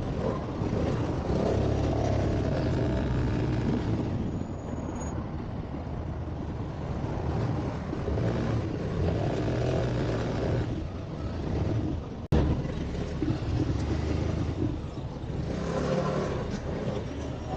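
Motorcycle engine running steadily while riding, with wind noise over it; a brief break about twelve seconds in.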